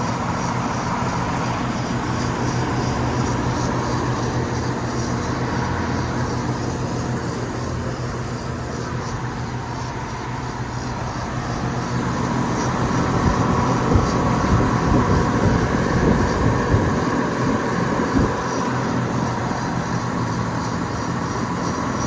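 Air conditioner running with a steady mechanical hum and a faint tone; a little past halfway it grows louder and rougher, with irregular knocks for several seconds before settling back.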